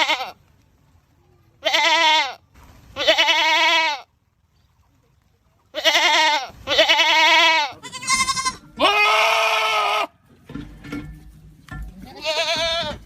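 Goats screaming: a string of about seven loud, wavering bleats, each a second or less, with a pause in the middle and a longer gap near the end.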